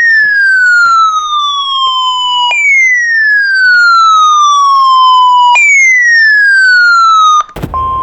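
Three loud electronic siren-like sweeps, each falling in pitch over about three seconds with an echo trailing behind. Near the end they cut off and a steady single-pitched alert tone starts over radio hiss: the warning alarm tone of a NOAA Weather Radio broadcast that comes before a warning is read out.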